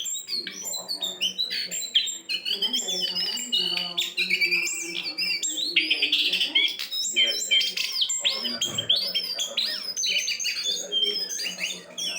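Jongkangan bird calling without pause: a fast, varied run of chattering notes and sweeping whistles.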